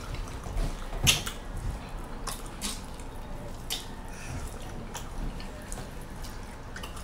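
Wet chewing and lip-smacking of someone eating sauced chicken wings off the bone: a scattered string of short, sharp, moist clicks, the loudest about a second in.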